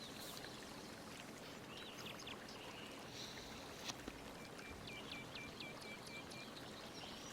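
Faint steady background hiss, with faint bird chirps: a short trill about two seconds in and a quick run of about eight short notes in the second half.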